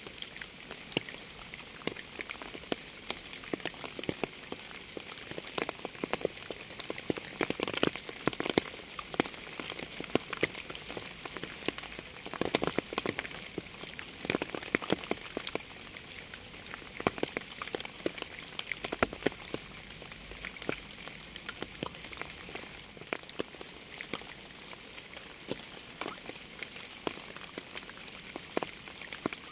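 Steady rain, an even hiss with many separate close drop hits throughout.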